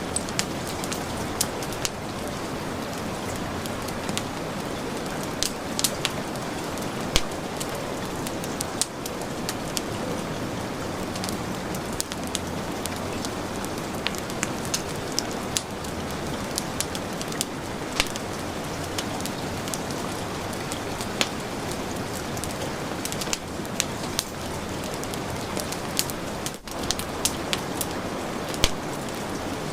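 Heavy rain falling steadily, mixed with a wood fire crackling, with frequent sharp pops and clicks over the rain's even hiss.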